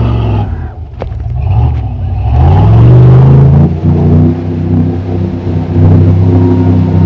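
Off-road truck's engine easing off, then revving up about two seconds in and holding steady high revs. There is a brief knock about a second in.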